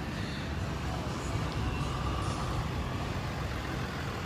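Steady traffic noise of a long, slow line of vehicles rolling past: engines and tyres together, with no single event standing out.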